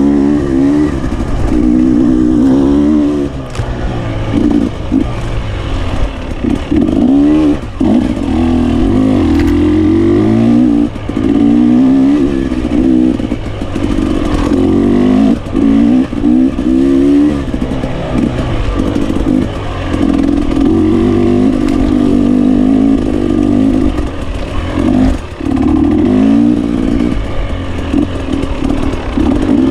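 GasGas 300 two-stroke enduro motorcycle engine being ridden, revving up and down with constant throttle changes and brief cuts where the throttle closes.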